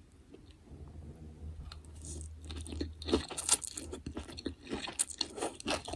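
Close-miked chewing of food from a vermicelli bowl, with crisp crunching. It is quiet at first and becomes busy and crunchy from about two seconds in.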